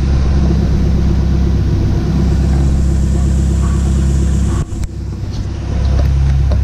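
Chevette's VW AP four-cylinder engine running steadily at low revs, its exhaust freshly bent away from the gearbox mount it had been knocking against. The sound briefly drops with a click about four and a half seconds in, then comes back.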